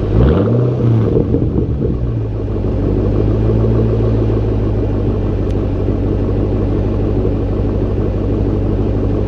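Ford Mustang GT's 4.6-litre V8 through a Roush Extreme Performance stainless catback exhaust. It gives one quick rev that rises and falls in the first two seconds, then settles into a steady idle with a deep groan and a subtle rumble.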